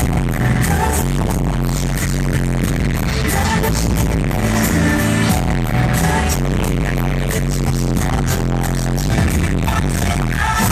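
Live pop music played very loud over a concert PA, with a heavy bass and a steady beat, heard distorted through the recording device's overloaded microphone.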